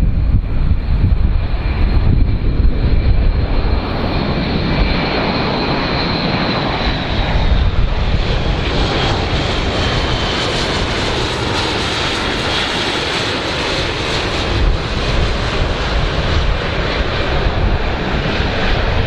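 Airplane engines running, with a steady low rumble and a high whine that drifts slightly lower in pitch. The noise grows fuller and hissier in the middle.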